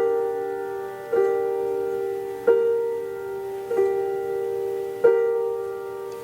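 Solo piano repeating the same chord about every 1.3 seconds, each chord ringing out and fading before the next is struck.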